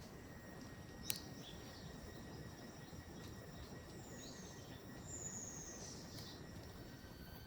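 Forest ambience: a steady high insect tone, a sharp click about a second in, and two falling bird whistles a little past the middle.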